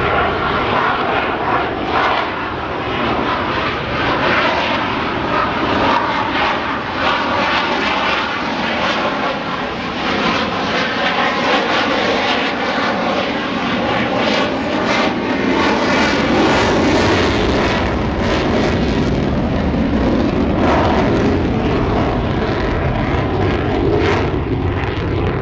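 An F/A-18E Super Hornet's twin General Electric F414 turbofan engines making loud, steady jet noise as it flies a slow, nose-high, high angle-of-attack pass.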